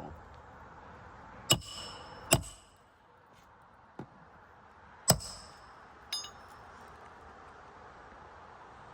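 Hammer blows on a steel roof snake tool, driving a roofing nail under a shingle: four sharp metallic strikes that ring briefly, at uneven spacing, with a faint tap between the second and third.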